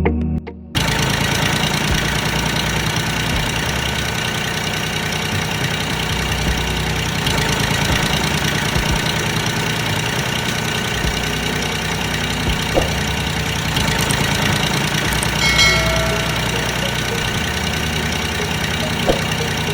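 An engine running steadily at idle, with a brief squeak near the end.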